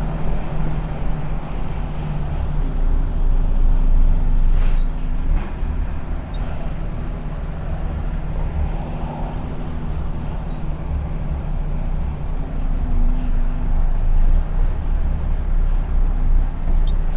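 Heavy truck driving, heard from inside the cab: a steady low rumble of engine and road noise, with two short knocks about five seconds in.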